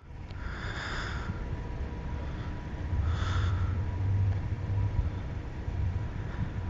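An approaching freight train heard from a distance: a steady low rumble with wind on the microphone, growing a little louder about three seconds in. Two short high tones sound over it, one about half a second in and a shorter one about three seconds in.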